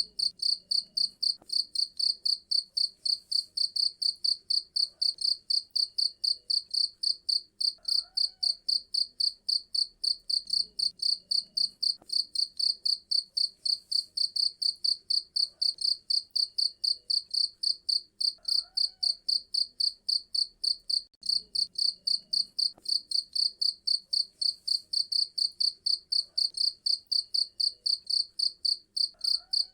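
A cricket chirping loudly and steadily: a shrill, even pulse of about four to five chirps a second.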